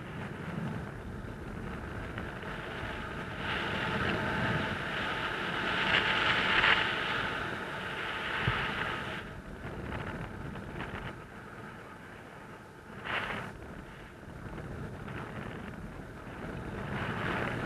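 Wind rushing over the microphone in gusts, swelling to its loudest about six seconds in, easing off, surging briefly past the two-thirds mark and building again near the end.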